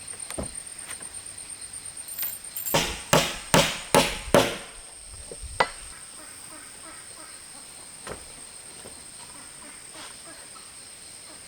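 Five quick, hard blows of a hand tool striking wood, then one more about a second later, over a steady high insect drone.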